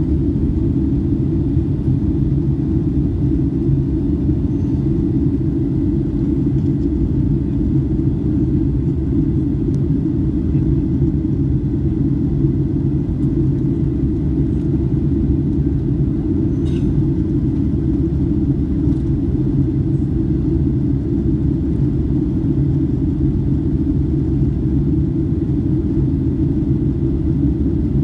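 Steady low roar of a Boeing 757-200's engines and rushing air, heard from inside the passenger cabin in flight.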